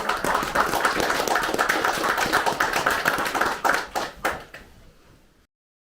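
Small audience applauding at the end of a talk, a dense patter of many hands clapping. It thins out after about four seconds to a few last claps, then cuts off.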